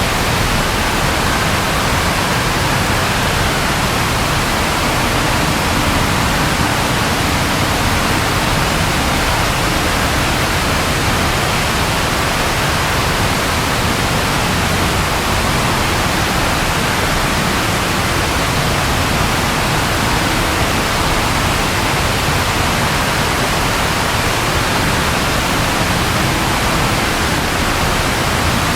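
Steady rain falling, an even hiss that holds at one level throughout, with no thunderclap.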